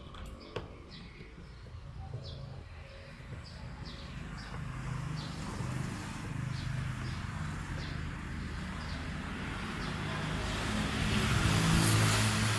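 A motor vehicle passing, its engine and tyre noise building to loudest near the end and then easing off, while small birds chirp repeatedly. A few sharp clicks sound at the start.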